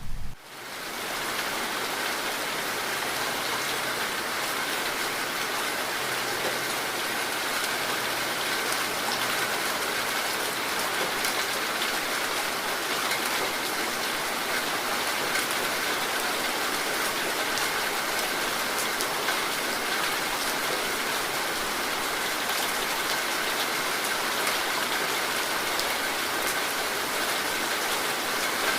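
Steady rain falling, a dense even hiss of many drops hitting surfaces, with fine drop ticks throughout. It comes in abruptly just after the start and then holds steady.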